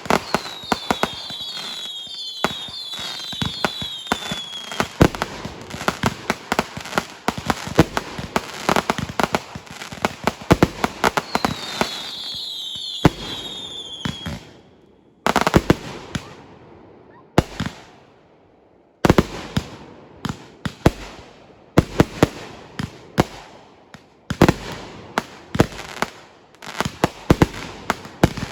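Fireworks display: a dense run of bangs and crackling, with several falling whistles at the start and again about halfway through. In the second half the bangs come more spaced out, each one followed by a short decaying tail.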